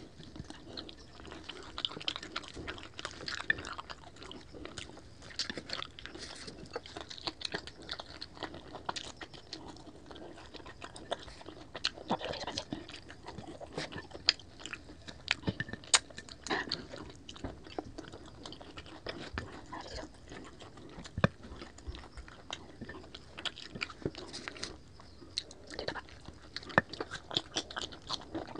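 Close-miked eating: biting and chewing crispy lechon kawali (deep-fried pork belly), with frequent sharp, irregular crunches of the crackling skin.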